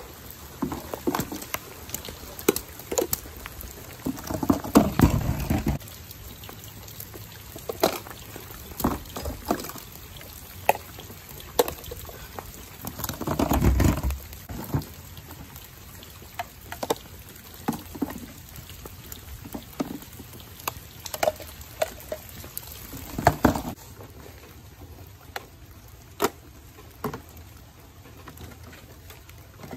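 Light rain pattering on wet flagstones, with scattered sharp plastic clicks and knocks as toy mini trash bins are gripped by a plastic grabber arm, tipped into a plastic wastebasket and set down. Three heavier low rumbling thumps come about five, fourteen and twenty-three seconds in.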